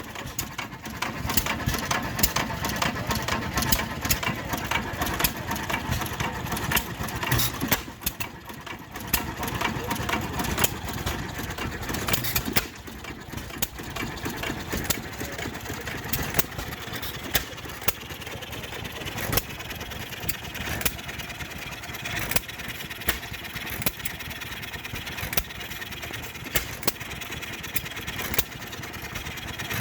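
Antique engines running, with frequent sharp, irregular pops over a steady mechanical din.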